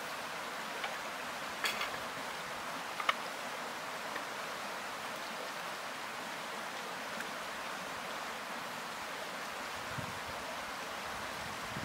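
Steady, even rushing background noise of outdoor ambience, with a few faint short clicks about two and three seconds in.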